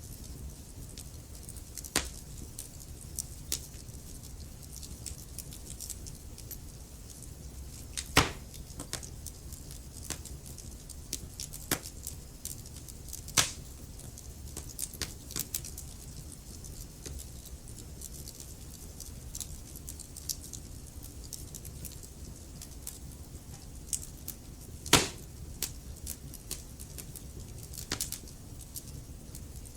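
Wood fire crackling in a fireplace: irregular sharp pops and snaps over a low steady rumble, with three louder pops spread through, about 8, 13 and 25 seconds in.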